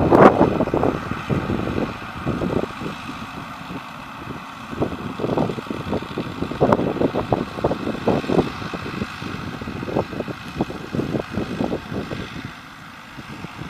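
MTZ 952.4 tractor's diesel engine running steadily during spraying, with irregular knocks and rattles over it. A loud rush at the start dies away within the first two seconds, and the sound drops in level near the end.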